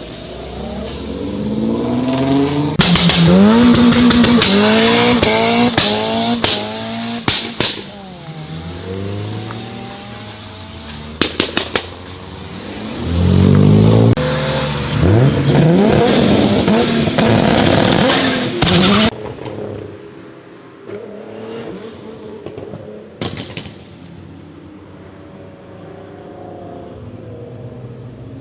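Performance car engines revving hard, the pitch climbing and falling again and again, with sharp exhaust pops and bangs between revs, including a quick run of three bangs. About two-thirds of the way in, the sound gives way to a quieter engine running with a few light revs.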